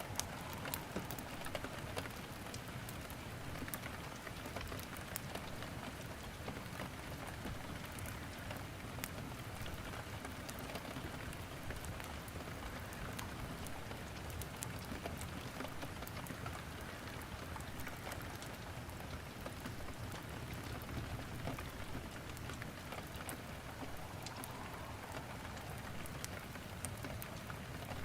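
Steady rain falling, mixed with the irregular crackle and pops of wood burning in a fireplace.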